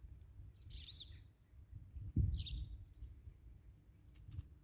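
Small bird chirping: a short, high sweeping chirp about a second in, then a couple more around two seconds in. A low thump comes with the second group, and a few faint clicks follow near the end.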